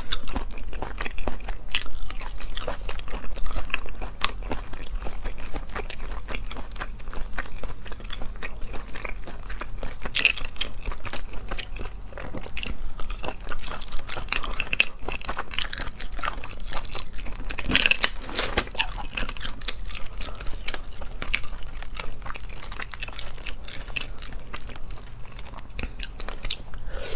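Close-up eating sounds: chewing and mouth noises from sea snail meat, with many short sharp clicks scattered throughout.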